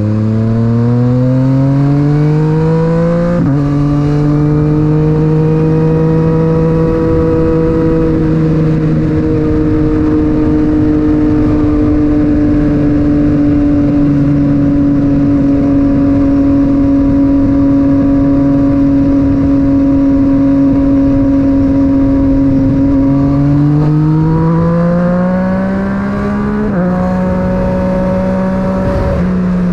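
Yamaha MT-09's three-cylinder engine through an Akrapovic titanium exhaust, heard from on board while riding. It pulls up to a gear change about three seconds in, then cruises at a steady engine speed for most of the time. Near the end it accelerates again and changes gear once more, with wind noise underneath.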